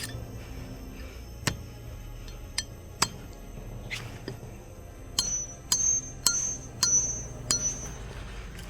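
A series of sharp clinks, a few spaced ones and then a quicker run of about six near the end of the first half-second-spaced group, the later ones with a short high ringing, over background music.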